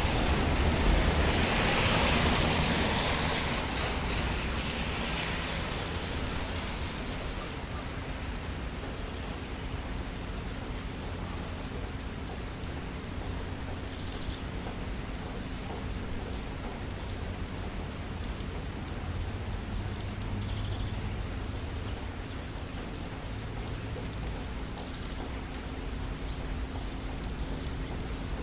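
Steady rain falling in a city street. A louder hiss swells over the first few seconds and fades back into the even patter, with a faint steady hum underneath.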